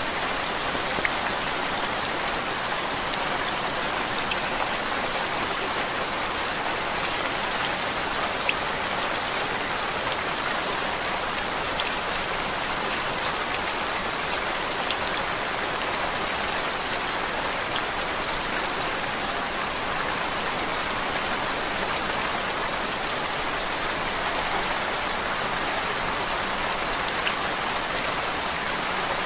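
Steady rain: an even hiss with faint, scattered drop ticks, unchanging throughout.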